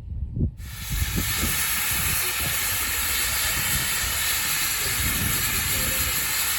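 Steam locomotive letting off steam: a loud, steady hiss that starts abruptly about half a second in and holds without a break.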